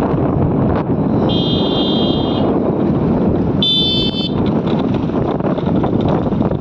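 Steady rush of wind on the microphone and road noise while riding, with a vehicle horn beeping twice: a high beep of about a second beginning a second or so in, then a shorter one near the middle.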